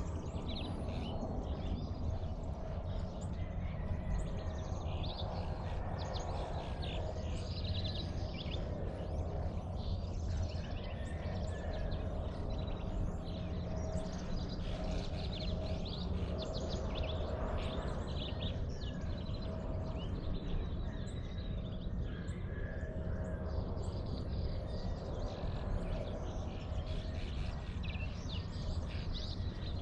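Many birds chirping and calling at once in a dawn chorus, over a steady low rumble.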